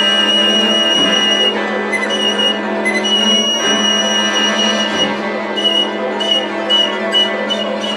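A chamber ensemble of Chinese and Western instruments playing contemporary concert music: a low note is held throughout under a high sustained tone, which breaks into shorter repeated notes in the second half.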